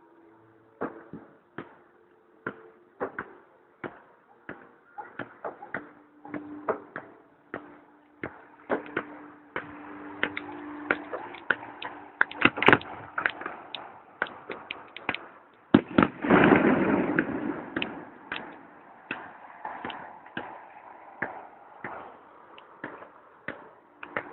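Fireworks going off: a long run of sharp bangs and crackles that grows denser, with a loud rushing burst about sixteen seconds in.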